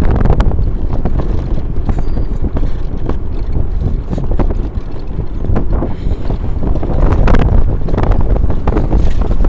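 Strong wind buffeting the microphone: a loud, low rumble broken by frequent short knocks.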